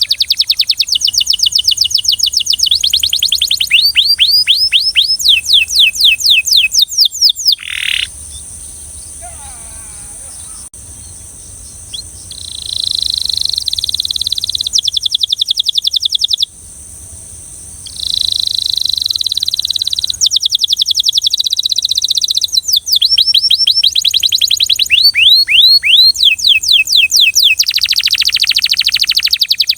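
Belgian canary singing rapid trills and rolls of quickly repeated high notes, with some sweeping runs. The song pauses twice briefly before resuming.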